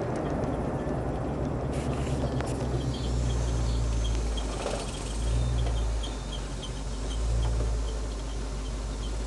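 1979 Camaro Z/28's V8 engine running with a low rumble that swells about three times, around three, five and seven seconds in, as the throttle comes on and off.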